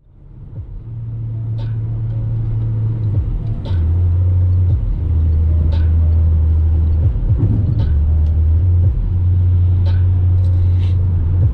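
Peugeot Expert van's 1.6 turbo diesel and road noise heard from inside the cabin while driving: a steady low drone that fades in at the start and shifts pitch a few times, with light ticks every second or two.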